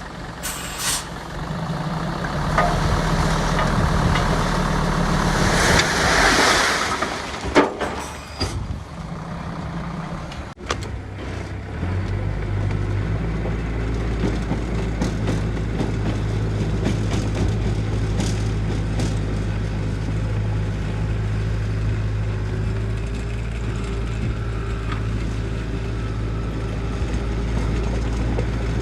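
Heavy diesel engine of construction machinery running, with a loud hiss of released air about six seconds in. From about twelve seconds on it settles into a steady low drone.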